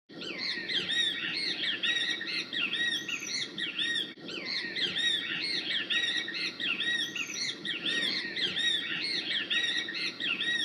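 Great Kiskadee calling: a rapid, continuous run of loud, repeated arching call notes, with a brief break about four seconds in.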